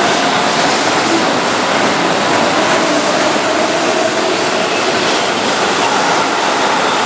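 Keihan Electric Railway commuter train running past along the platform, a loud, steady rush of wheels on rails.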